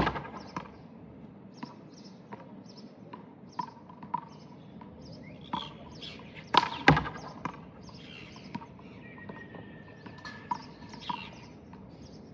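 Sharp slaps of a rubber handball being struck by hand and smacking off the wall during serve practice: one at the start, and a close pair about six and a half seconds in. Birds chirp in the background, with smaller ticks between the slaps.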